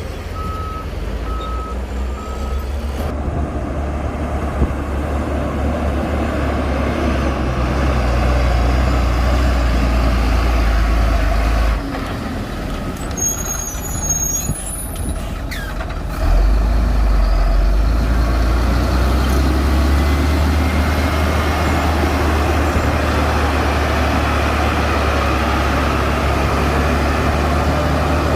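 Heavy diesel construction machinery running under load, a deep steady rumble that eases off for a few seconds past the middle and then comes back stronger. Near the start a reversing alarm gives three short beeps, and a brief high hiss comes a little after the middle.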